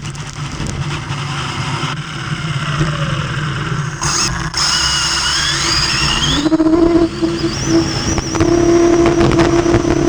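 Radio-controlled car's electric motor whining. The whine cuts out at the start and falls away in pitch, then rises again about six seconds in and holds steady near the end.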